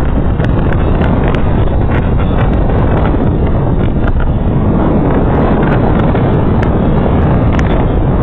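Loud, steady wind buffeting the microphone of a rider on the move, over a dense low rumble of the ride, with scattered short clicks throughout.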